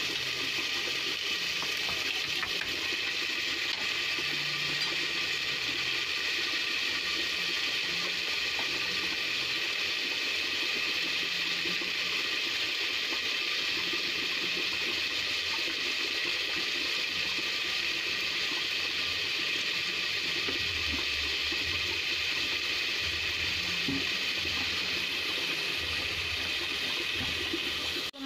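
Garlic paste frying in hot oil in an aluminium pot: a steady sizzle and bubbling.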